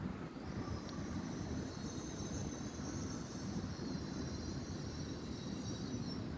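A train moving through the station: a low rumble with a high whine of several tones on top, which starts about half a second in and fades out near the end.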